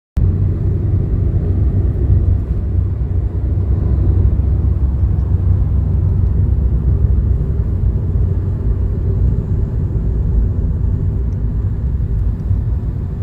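Steady low road rumble of a moving vehicle, heard from inside the cabin.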